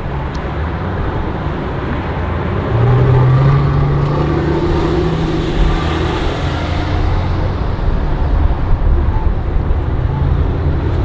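Road traffic passing at a street crossing: a vehicle's engine and tyres swell and pass about three to seven seconds in, over a steady low rumble of wind on the microphone.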